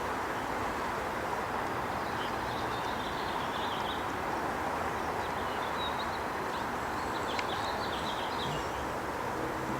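Steady outdoor rushing noise, with small birds chirping faintly a few times.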